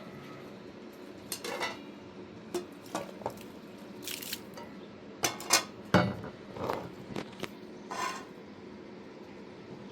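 Dishes and cutlery being handled: a string of short clinks and knocks, some with a brief ring, spread over several seconds.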